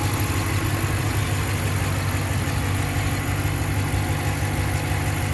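A pickup truck's V8 engine idling steadily under an open hood.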